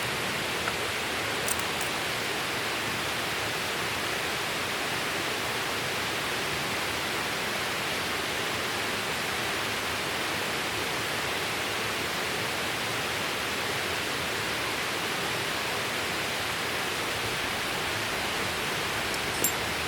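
Steady, even rushing noise with a couple of faint ticks.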